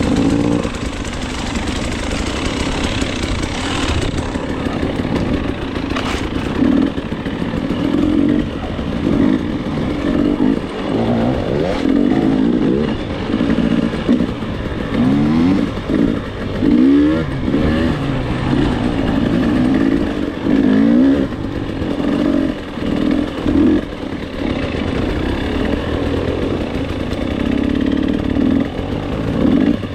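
Dirt bike engine ridden hard on a trail, the revs rising and falling over and over as the throttle is opened and closed, with quick up-sweeps in a run about halfway through.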